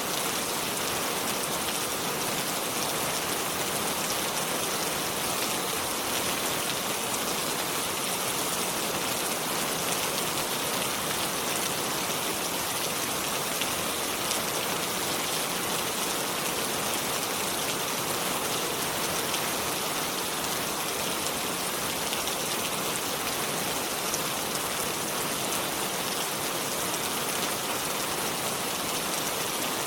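Steady rain falling, a dense even patter of many fine drops.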